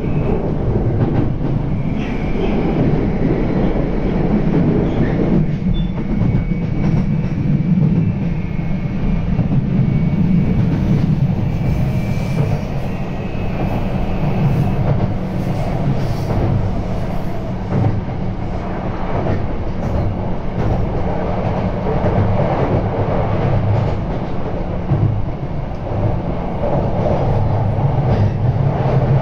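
Running noise of a JR E235 series electric train heard from inside the passenger car: a steady low rumble of wheels on rail. A faint high whine runs through the first half, and a few clicks come in the middle.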